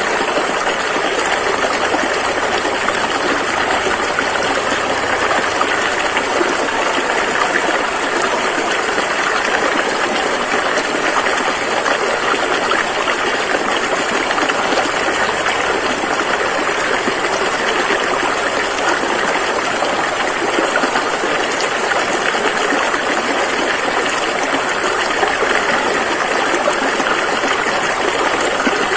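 Rushing river water flowing steadily: an even, continuous rush with no breaks.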